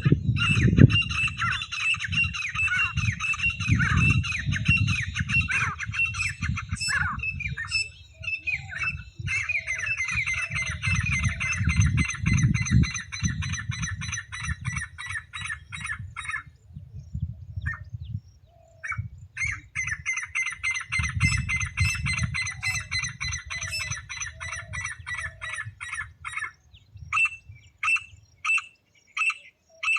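Teetar (francolin) calling: three long bouts of rapid, repeated high notes with short breaks, then short separate calls, about one every second or less, near the end. A low rumble sits under the calls.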